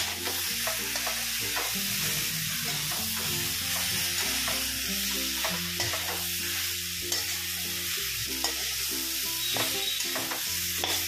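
Soybean chunks in onion-tomato masala sizzling in a non-stick pan while a spatula stirs and scrapes through them, with irregular light clicks of the spatula against the pan.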